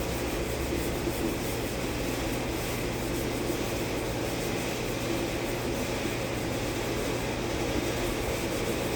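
Hand sanding block rubbing over the wet primer of a car body panel while the guide coat is sanded off, over a steady low hum.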